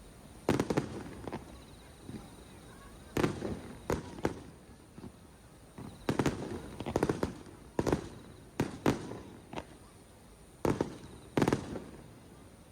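Aerial fireworks shells bursting overhead: about a dozen loud booms at uneven intervals, several coming in quick pairs, each trailing off in a short rumble.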